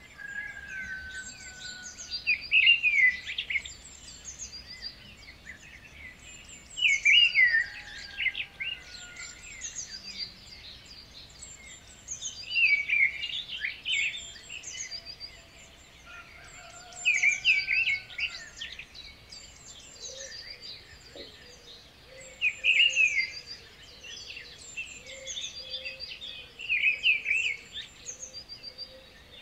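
Birds singing: one bird repeats a short, loud song phrase about every five seconds while other birds chirp around it.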